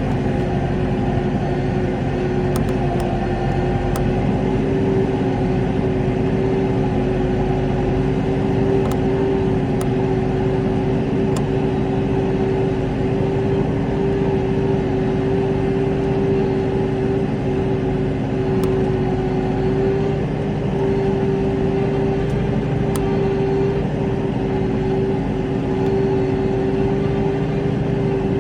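New Holland T5.130 tractor's four-cylinder diesel engine running steadily under load while pulling a four-furrow plough, its pitch holding level throughout.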